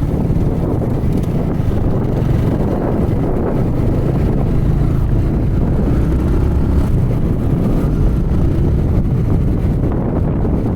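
Wind buffeting the microphone of a motorcycle on the move, with a Yamaha R15 V3's 155 cc single-cylinder engine running steadily underneath.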